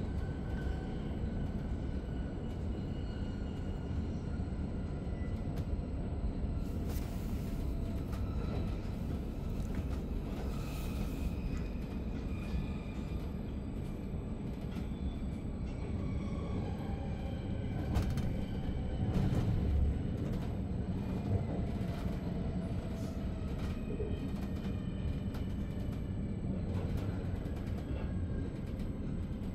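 Interior sound of a Zurich S-Bahn double-deck DPZ train hauled by an Re 450 locomotive, under way: a steady rumble of wheels on rails with faint whining tones that slowly fall in pitch, scattered clicks, and a louder stretch of rumble a little past halfway.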